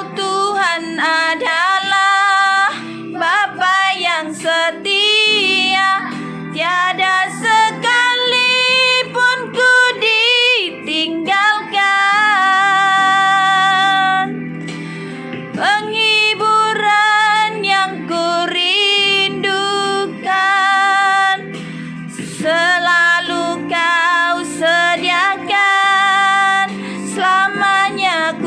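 A woman singing an Indonesian worship song in her natural, unamplified voice, holding long notes with vibrato over a steady instrumental backing, with brief breaks between phrases.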